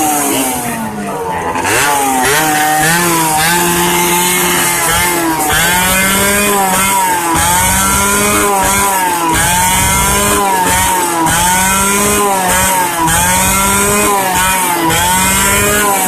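Yamaha RX-King's 135 cc two-stroke single-cylinder engine revved hard, its pitch rising for a few seconds and then swinging up and down about once a second as the throttle is blipped again and again, run hard in an attempt to blow the engine.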